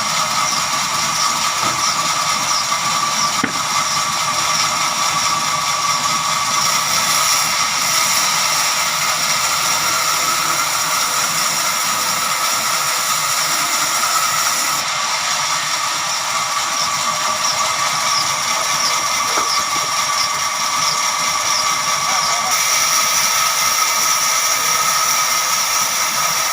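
Sawmill saw running steadily through a jackfruit wood log, a constant high whine over a hiss.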